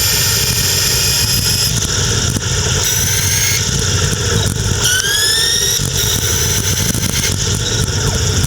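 Geared hub motor of a 48 V, 600 W electric bicycle whining while riding, over a low rumble. Its pitch shifts in steps and rises in a glide about five seconds in as the motor speeds up.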